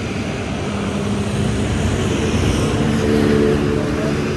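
A motor vehicle's engine, growing louder to a peak about three seconds in and then easing off, over a steady rumble of road traffic.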